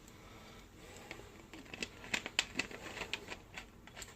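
Faint, irregular light clicks and taps from handling, about a dozen of them starting about a second in and most frequent around the middle.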